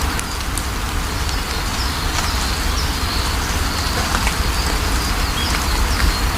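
Steady rain with a deep rumble, and short high bird chirps repeating every second or so through the rain.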